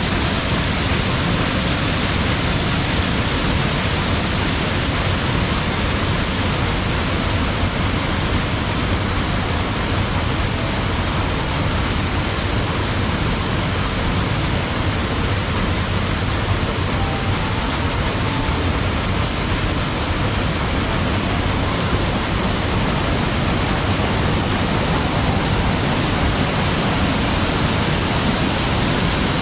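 Waterfall: the steady, unbroken rush of water falling and churning over rock.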